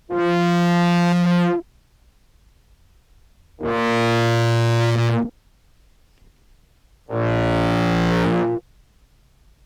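Three sustained contrabass clarinet notes, each about a second and a half long with a gap between, the second and third lower than the first, distorted through a fuzz pedal. A little of the clarinet's key-click attack still comes through at the note starts.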